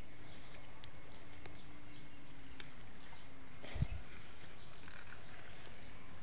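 Small bird repeatedly giving short, high, falling chirps over a steady outdoor hiss, with one soft thump against the microphone about four seconds in.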